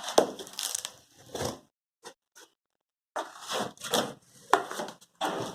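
Cardboard packaging of a refrigerator being pulled and torn open by hand: irregular bursts of scraping, rustling and tearing, with two short clicks about two seconds in.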